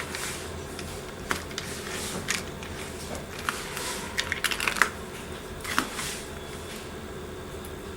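Small sharp clicks and taps of a metal watch band and link remover tool being worked, scattered at first, then a quick cluster about three and a half to five seconds in, over a steady low hum.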